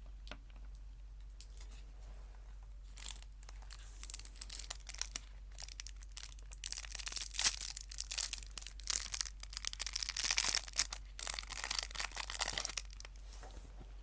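A crinkly wrapper being crumpled and torn open close to the microphone. It starts about three seconds in as scattered crackles, builds to a dense, loud crinkling in the middle, and fades out near the end.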